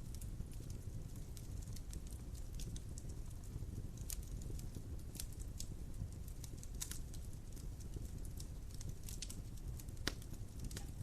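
Wood fire burning in a fireplace: a steady low rumble with sharp crackles and pops at irregular moments, one of the louder pops about ten seconds in.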